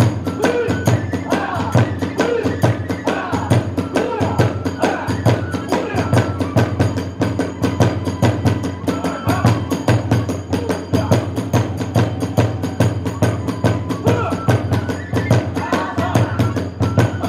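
Kagura hayashi music playing without a pause: a fast, steady drumbeat with small hand cymbals and a bamboo flute carrying the melody over it.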